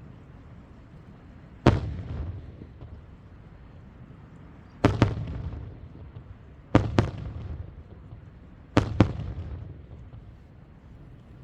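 Aerial firework shells bursting: about seven sharp bangs, the later ones coming in close pairs. Each bang is followed by a rolling, echoing rumble.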